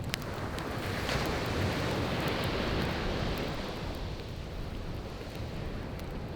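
Sea waves washing onto the shore, one surge swelling about a second in and drawing back, with scattered small pops and crackles from a wood campfire.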